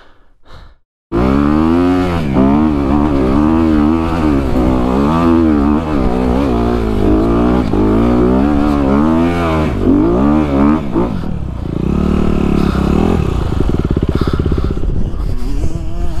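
Dirt bike engine revving up and down over and over as the bike is ridden, its pitch rising and falling every second or so; after about ten seconds it drops to a lower, steadier note.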